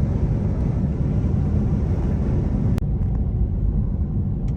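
Steady low road and engine rumble of a moving car, heard from inside the cabin, with a single sharp click about three seconds in.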